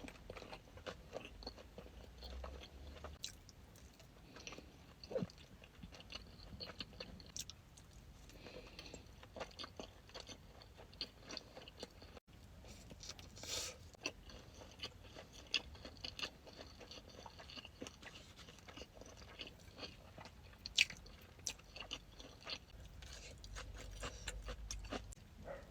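Close-miked eating ASMR: sushi being bitten and chewed, with many small wet clicks and crunches. About halfway through there is a brief dropout where one clip cuts to the next.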